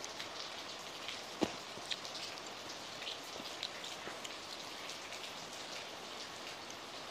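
Heavy rain falling steadily, a constant hiss with many individual drops ticking close by. A sharper click sounds about a second and a half in.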